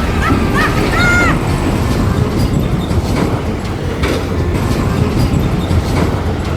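Heavy road traffic rumbling steadily as large vehicles pass, with a few short, arching two-tone horn notes at the start, like a bus's musical 'telolet' horn.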